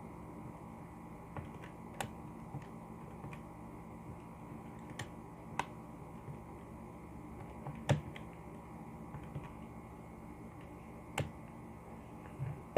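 Keys pressed one at a time, about a dozen sharp clicks spaced irregularly with the loudest about eight seconds in, over a faint steady room hum, as a calculation is keyed in.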